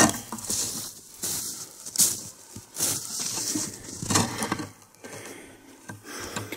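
Crunching footsteps and rustling handling noise while the camera is carried and set up in a new place, a sharp crunch every second or so.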